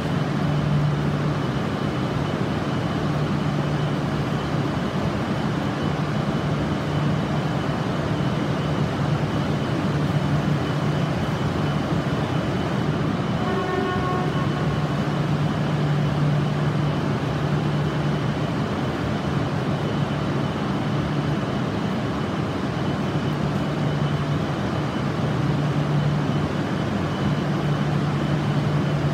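E6-series Shinkansen standing at the platform, its onboard equipment giving a steady hum with a thin high tone above it. A brief pitched tone sounds once about halfway through.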